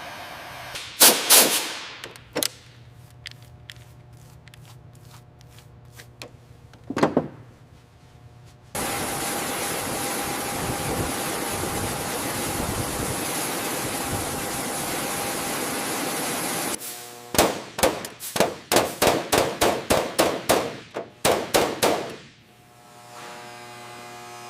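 Metal-on-metal tool work: a few clanks, a steady hissing run of about eight seconds, then a rapid series of sharp knocks like hammering for about five seconds.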